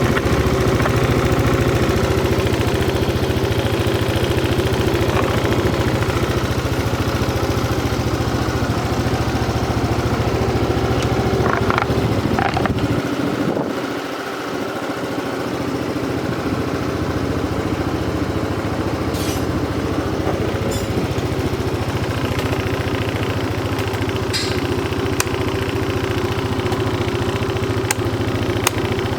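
Yamaha Cygnus 125X FI scooter's single-cylinder four-stroke engine idling steadily through its exhaust. About 13 seconds in, the sound briefly dips and loses its deepest part, then returns.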